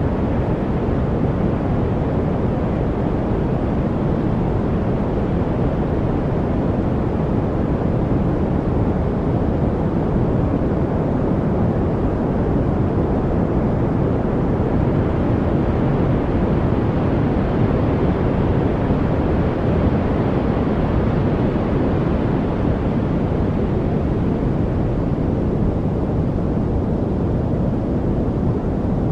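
Steady white noise: an even, unbroken rush weighted toward the low end, growing slightly brighter for a while around the middle.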